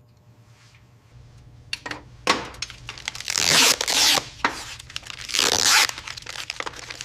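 Brittle foil insulation crinkling and tearing as it is handled, in a few noisy bursts after a quiet start, the longest lasting about a second.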